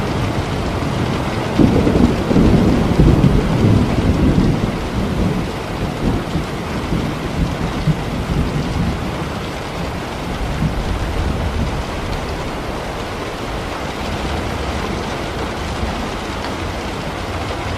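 Steady heavy rain with a roll of thunder rumbling about two seconds in and fading away over the next few seconds.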